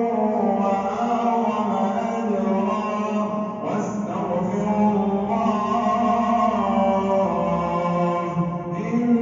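A male imam chanting in the melodic tajweed style of prayer recitation, one voice drawn out in long, slowly bending held phrases, with a brief pause for breath about three and a half seconds in.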